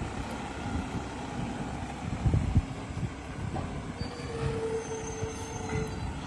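Garbage truck running with a low rumble and a couple of thumps about two and a half seconds in, then a steady squeal for about two seconds in the second half.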